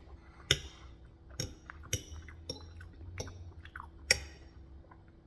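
A person chewing a mouthful of food close to the microphone, with about six sharp wet clicks spread through it, the loudest about half a second in and near the end.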